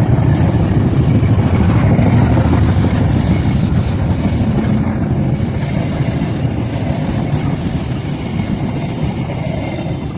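A train hauled by a KAI CC206 diesel locomotive passing at speed: a loud, steady rumble of wheels on track that slowly eases off toward the end.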